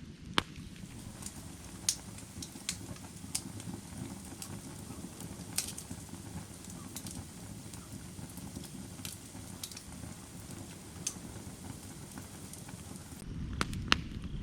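Firewood burning: a steady low rush of flame with sharp, irregular crackles and pops from the wood, a few louder pops near the end.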